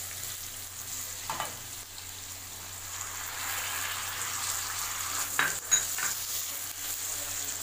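Chopped vegetables sizzling in hot refined oil in a kadhai while being stirred with a spatula, a steady high hiss. A few short scraping knocks of the spatula against the pan come about a second and a half in and again around five to six seconds in, the loudest near the end.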